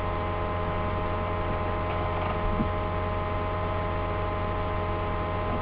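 Steady electrical mains hum with many steady overtones, running without change.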